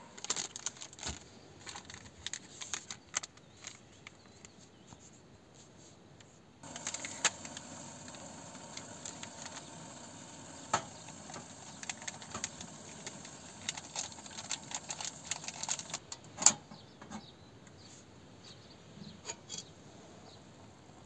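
Irregular light clicks and clinks, like small hard objects being handled, over a soft steady hiss. The loudest click comes about sixteen seconds in, and after it things grow quieter.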